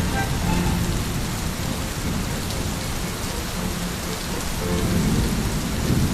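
Steady heavy rain with a low rumble of thunder underneath, swelling slightly near the end.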